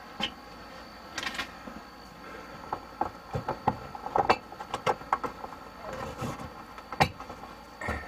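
Metal tools and PEX plumbing fittings being handled during crimping work: scattered clicks and light knocks, with one sharp click about seven seconds in.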